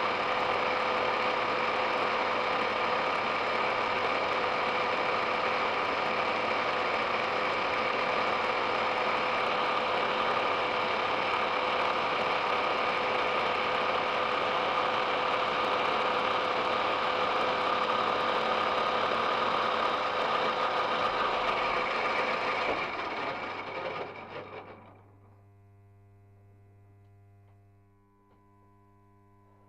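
Metal lathe running with a steady mechanical drone of motor and gearbox, then switched off about 23 seconds in and winding down over a couple of seconds. A faint steady electrical hum remains after it stops.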